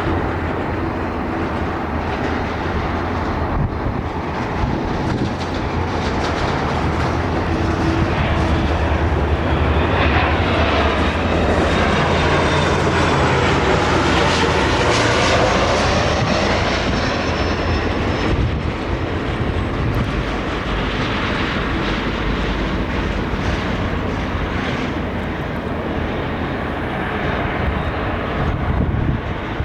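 Jet airliner's engines passing close by: the roar swells to its loudest about halfway through and then eases off. A high whine falls in pitch as the aircraft goes past.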